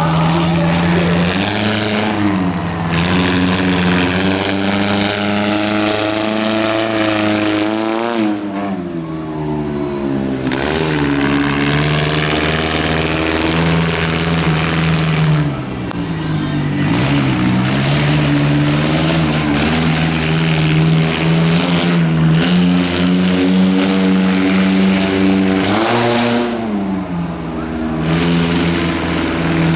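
Monster truck engine running hard at a steady high pitch. Its pitch drops and climbs back three times as the throttle comes off and goes back on.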